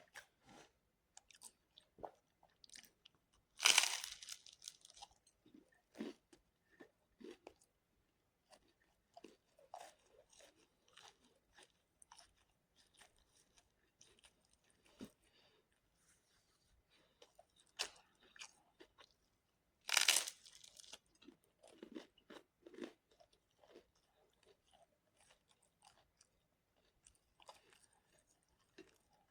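Close-up eating sounds: two loud crunching bites into crisp food, about four seconds in and again about twenty seconds in, with quieter chewing and small mouth clicks between them.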